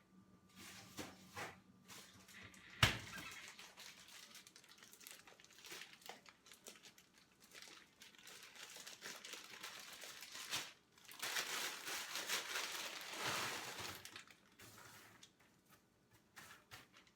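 Plastic bag of frozen hash browns crinkling as they are shaken out onto a baking sheet, with a sharp knock about three seconds in. The rustling is loudest between about eleven and fourteen seconds in.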